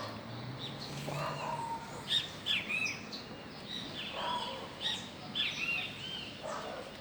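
Birds chirping: short, arching calls repeated in quick clusters every second or so.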